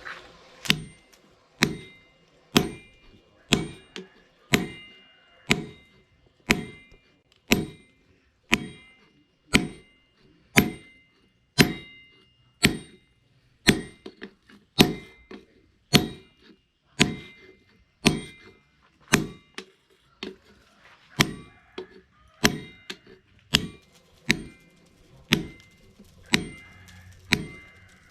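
Hammer forging steel cut from a chainsaw bar on an anvil: steady blows at about one a second, each with a short metallic ring.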